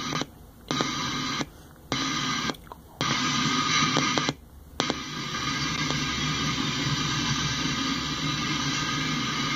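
Intermodal freight train cars rolling past: a steady, noisy rumble of wheels on rail. It cuts out abruptly to much quieter four times in the first five seconds, each gap about half a second long.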